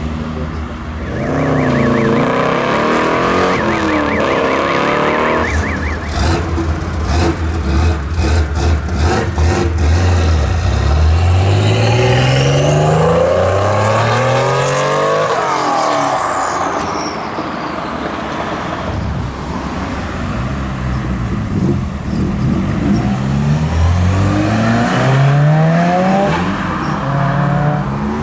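Car engines revving and accelerating hard away, the pitch climbing again and again as they go up through the gears, with one car passing close by in the middle. A rapid run of sharp pops about six to ten seconds in.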